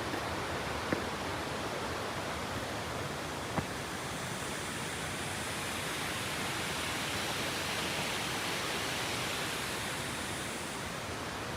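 Waterfall water falling and rushing in a steady, unbroken roar, with a couple of brief clicks in the first few seconds.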